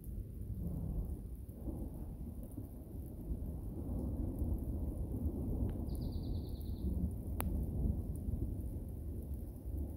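Thunder rumbling low and long, swelling about a second in and rolling on through the storm. A few sharp ticks and a brief buzzy high-pitched call about six seconds in sit over it.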